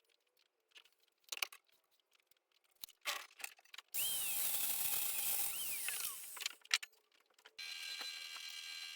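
Scattered clinks of tools and metal being handled, then two bursts of a handheld power tool working on steel rebar for the anchor rods. The first burst falls in pitch as it spins down, and the second runs steadily with a constant whine.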